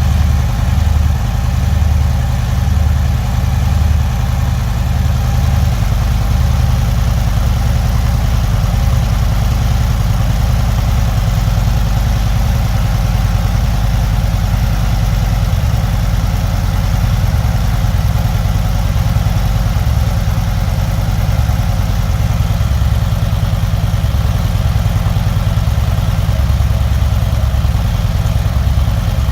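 Harley-Davidson Street Glide's V-twin engine idling steadily through its exhaust, a deep, even low-pitched sound with no revving.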